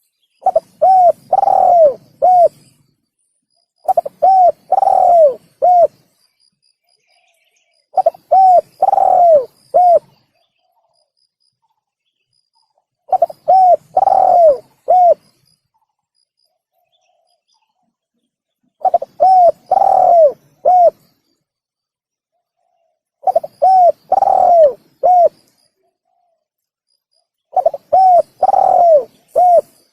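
Spotted dove (tekukur) cooing, played as a lure call: seven phrases about four to five seconds apart, each a quick run of coos with one longer, drawn-out note, separated by silence.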